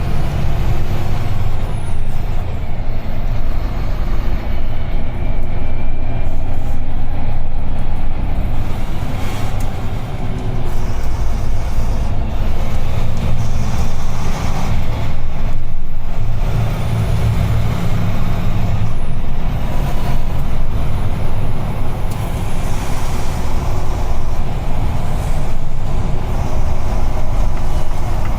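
UD Trucks Quon heavy truck on the move, heard from inside the cab: a steady low diesel engine and road rumble that swells and eases a little as it drives.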